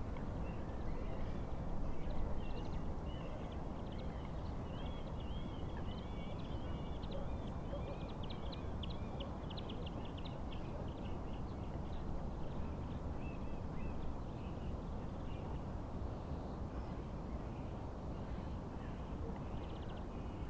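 Wild birds singing and calling over a steady low rush of wind and lake water. The birdsong is busiest in the first half and thins out toward the end.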